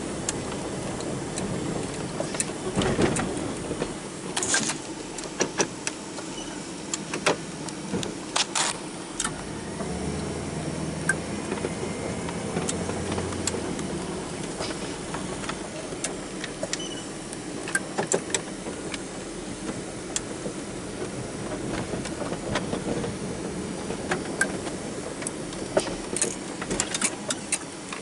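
A small engine running steadily, with frequent sharp clicks and rattles over the hum.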